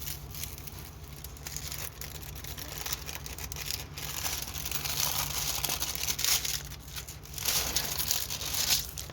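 Plastic packaging crinkling and rustling as it is handled, in irregular spells that grow louder around the middle and again near the end.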